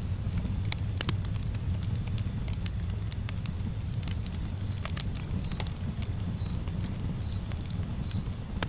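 Campfire burning: a steady low rumble of flames with frequent sharp crackles and pops from the burning wood. From about halfway, a faint short high chirp repeats roughly once a second.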